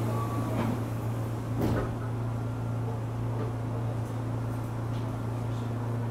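Inside a Tokyu 9000 series commuter train: a steady low hum from the car, with a few sharp knocks, the loudest about a second and a half in.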